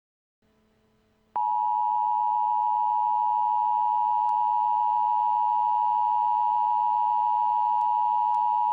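Emergency Alert System attention tone: one loud, steady tone near 1 kHz that comes on abruptly about a second and a half in and holds unchanged, marking the start of an emergency weather warning.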